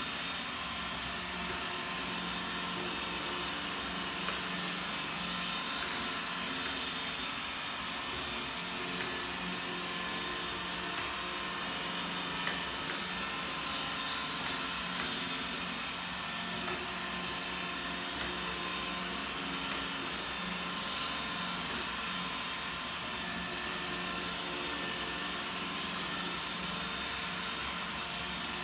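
iRobot Roomba robot vacuum running in spiral cleaning mode, its motors and brushes giving a steady whir with a few faint clicks as it sweeps up spilled coffee grounds.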